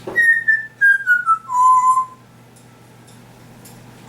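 African grey parrot whistling a run of about six clear notes stepping down in pitch, the last one held longer, over about two seconds.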